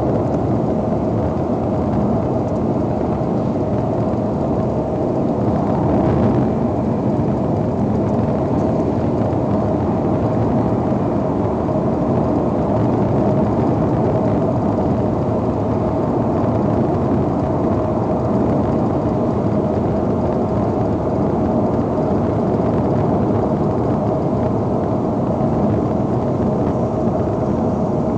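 Loud, steady rumbling noise from an Acura TL, with one constant hum running through it and no change in level.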